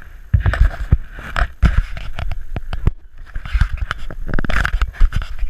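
Bicycle rattling and clattering over bumpy ground, with many sharp knocks and a low rumble, easing briefly about three seconds in, and wind on the microphone.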